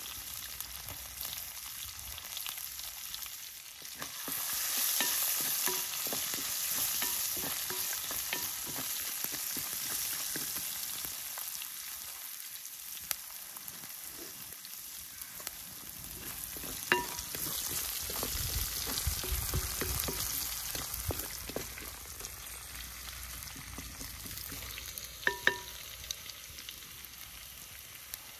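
Ginger and garlic sizzling in hot sunflower oil with mustard seeds in a pan, being stirred. The sizzle swells about four seconds in, and there are two sharp taps, one a little past halfway and one near the end.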